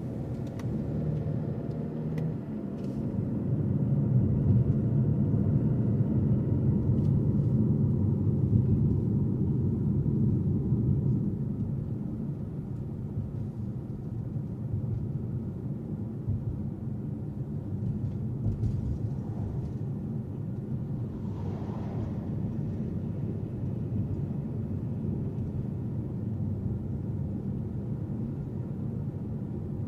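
A car being driven: a steady low rumble of engine and road noise that builds a few seconds in, holds, then eases off. A faint short falling tone comes about two-thirds of the way through.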